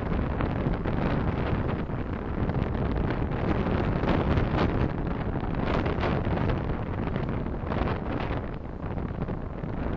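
Steady road and wind noise of a moving car as picked up by a dashcam microphone: a rushing hiss over a heavy low rumble, swelling and easing a little.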